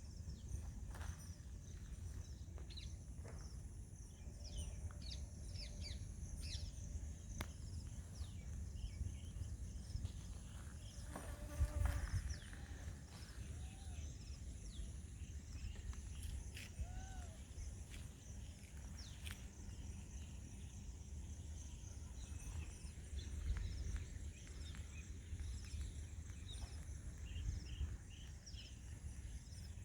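Village outdoor ambience: a steady high insect drone with scattered bird chirps and calls over a low rumble. About twelve seconds in, a brief louder call with several pitched tones stands out.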